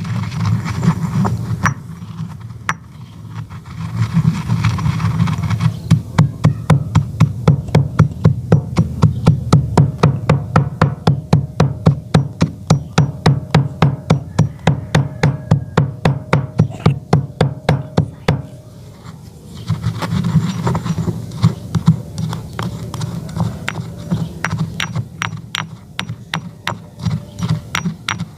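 Chalk being crushed on a plate in quick, even knocks and crunches, about four a second, with a brief pause about two-thirds of the way through.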